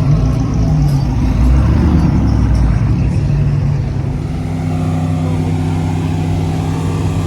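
Car engine running at low revs: uneven and louder for the first few seconds, then settling into a steady, even drone about four seconds in.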